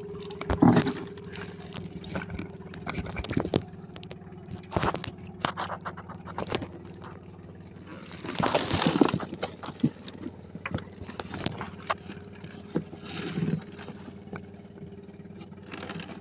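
Small boat engine running at a steady low hum, with repeated knocks and short scraping bursts of gear being handled on deck, the longest burst about halfway through.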